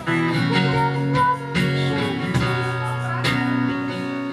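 Music: strummed guitar chords ringing out, a new chord struck every second or so.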